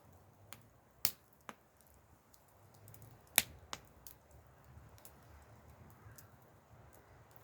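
Wood fire crackling: scattered sharp pops over a low steady background, the loudest about a second in and again about three and a half seconds in.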